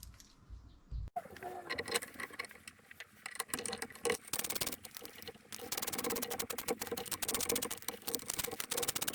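Quick light metallic clicking and rattling as the motor's replacement bolts, made from M4 threaded rod, are fitted and tightened by hand. The clicking becomes denser and louder about halfway through.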